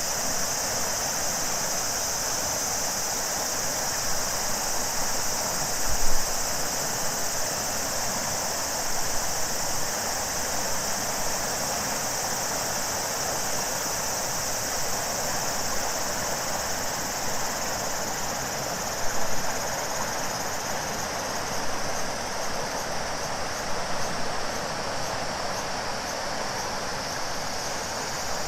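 River water flowing steadily beneath a continuous high-pitched cicada chorus; about two-thirds of the way through, the cicada song begins to pulse. A brief low thump about six seconds in.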